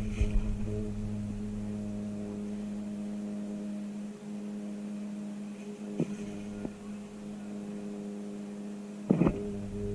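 A steady low hum with a few sharp clicks, the loudest click near the end.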